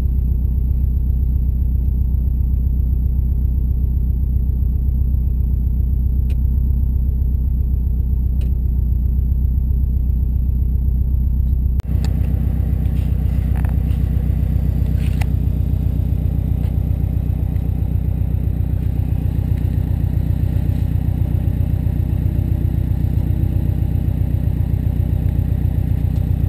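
Subaru WRX turbocharged flat-four engine idling steadily, heard from inside the car's cabin. About twelve seconds in the sound breaks off for an instant and comes back fuller.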